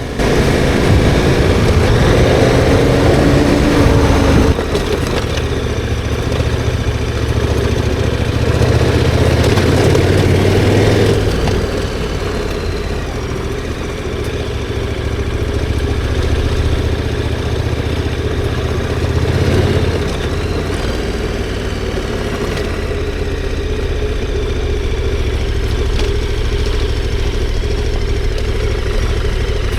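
KTM 1290 Super Adventure R's V-twin engine running, its note dropping about four seconds in and again about eleven seconds in.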